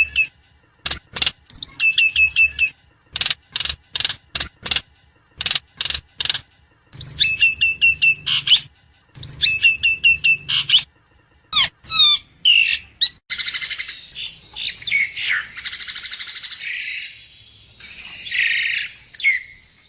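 Javan myna calling: repeated quick chirping phrases broken by sharp single clicks, turning into a denser, harsh chatter from about two-thirds of the way in.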